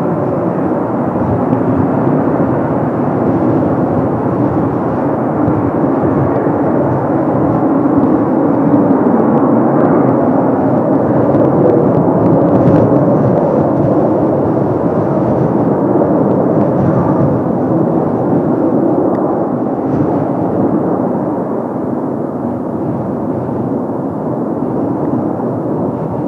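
Kawasaki T-4 jet trainers taking off as a six-ship formation, their twin turbofan engines a loud, steady rumble that swells to a peak partway through and slowly eases off.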